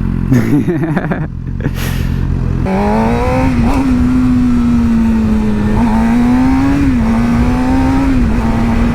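Sport motorcycle engine, low for the first couple of seconds, then pulling away and held at a steady cruising pitch with small rises and dips.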